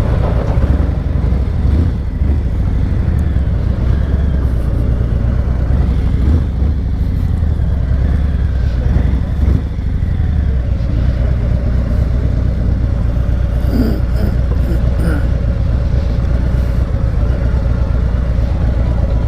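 Harley-Davidson Road Glide's V-twin engine running at low speed as the bike is ridden in to park, a steady low rumble.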